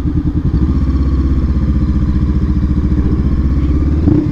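Honda CBR500R parallel-twin engine running at steady throttle as the bike rides on, with a brief rev about four seconds in.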